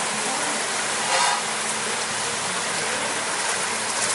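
Heavy rain pouring down in a thunderstorm: a steady, loud hiss, with one brief sharper sound about a second in.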